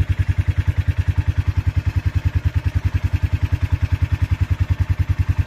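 Motorcycle engine idling steadily, an even low pulse of about ten beats a second.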